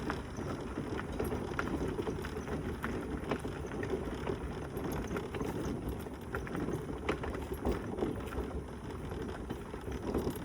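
Mobility scooter rolling along a path: a steady rumble of the wheels and motor, with scattered small clicks and rattles.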